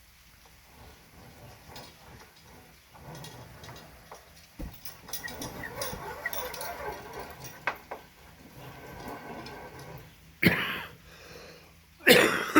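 A dog barking twice, short and loud, near the end, over quieter scattered taps and rustling.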